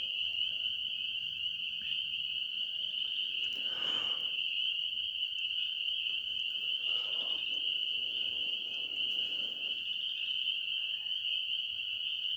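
Night chorus of calling animals: a steady, high-pitched trilling that never lets up. Soft rustling sounds come in about four and seven seconds in.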